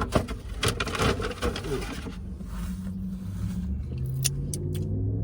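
Crinkling and handling noise with sharp clicks for about two seconds, then low sustained notes of background music begin.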